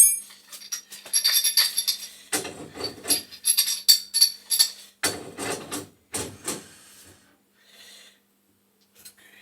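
Small metal objects jingling and clinking, then a run of irregular knocks and clatter that stops about two-thirds of the way through.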